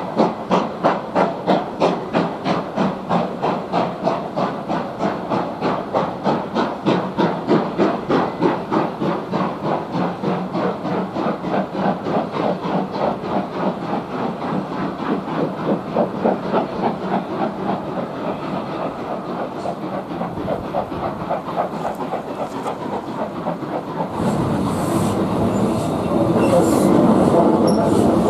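Steam locomotive pulling away, its chimney exhaust beating about four times a second and quickening as it gathers speed and draws off. Near the end a louder, steady rumble of train wheels on rail takes over.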